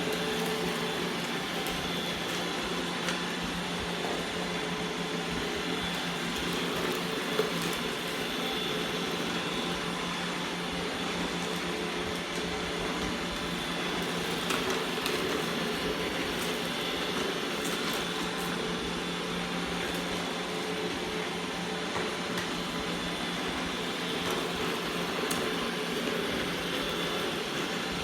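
Roomba i3 robot vacuum running a spot-clean cycle: a steady motor whir with a constant low hum and a few faint clicks.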